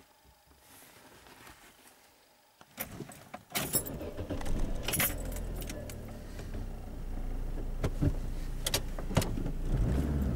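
Car keys jangling and clicking, then the 1996 Opel Corsa B's engine starting about three and a half seconds in and running, with a steady low rumble heard from inside the cabin that grows louder near the end.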